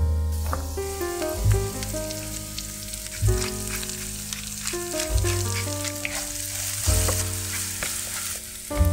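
Diced red onion and potato cubes sizzling in hot oil in a nonstick frying pan, with a steady hiss and scattered crackles. A spatula stirs them near the end.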